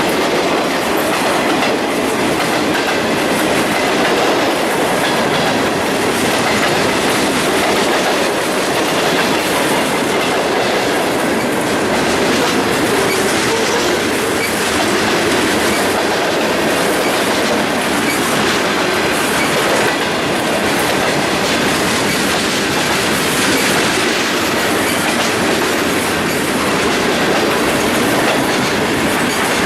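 Freight cars of a long mixed CSX train rolling past steadily, their wheels clicking over the rail joints, with a faint flange squeal.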